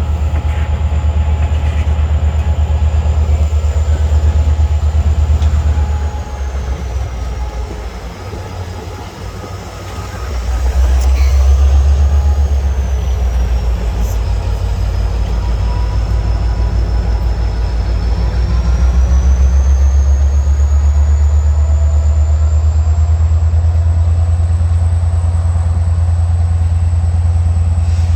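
CSX freight train passing, a steady low rumble that eases off about six seconds in and builds back up around eleven seconds in.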